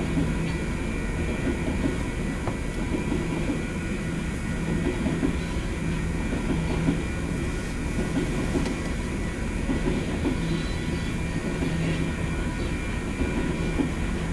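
BNSF freight train rolling past at a steady, unbroken level, its wheels running on the rails.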